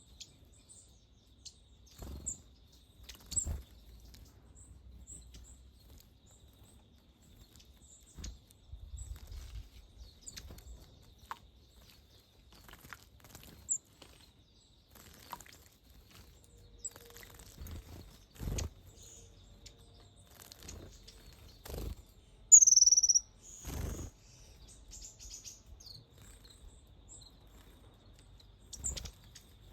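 Wild birds at a birdbath calling with scattered short, high chirps, among many brief noisy rustles. One loud, falling call stands out about two-thirds of the way through.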